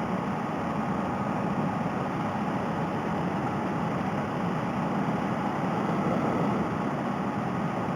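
Honda Rebel 250 motorcycle cruising at a steady speed: an even drone of engine and wind noise, picked up by a helmet-mounted headset microphone.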